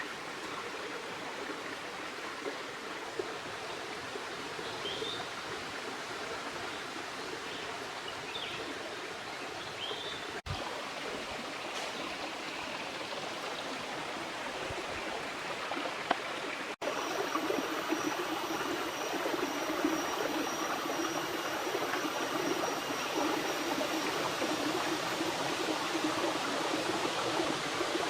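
River water running with a steady rush. The sound briefly drops out twice and is louder after the second dropout.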